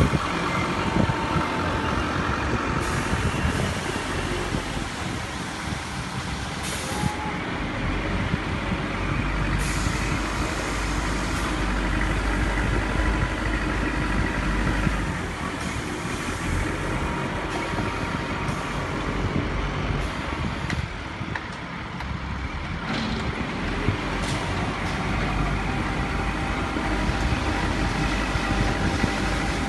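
Heavy diesel machinery running steadily with a low rumble, with scattered sharp knocks and clanks of construction work.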